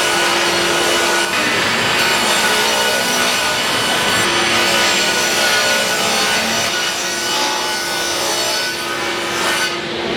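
Wood being sawn: a steady, continuous rasping of a saw cutting through timber.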